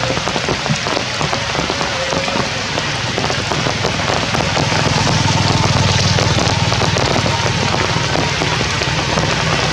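Hard rain falling, a dense patter of drops hitting surfaces. A low drone comes in about halfway through and grows louder.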